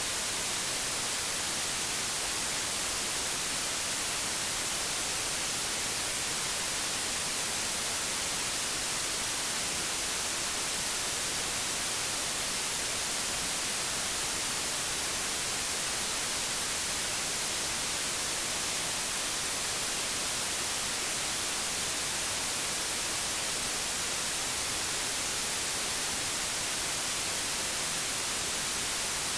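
Old analogue television static: a steady, even hiss, strongest in the high frequencies, with no breaks or changes.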